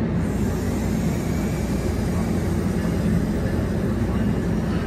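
A MARC bilevel commuter train standing at the platform: a steady low rumble and hum from the idling train.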